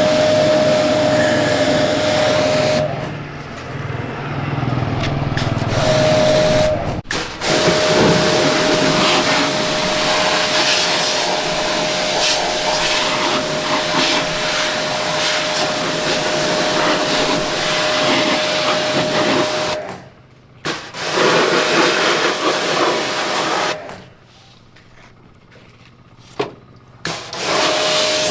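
A small motor running with a steady whine over a loud hiss. It cuts out about three seconds in, briefly again near twenty seconds, and once more for a few seconds near the end.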